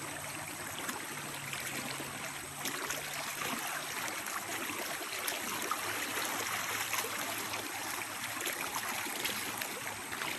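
River water running: a steady rush and babble of flowing current.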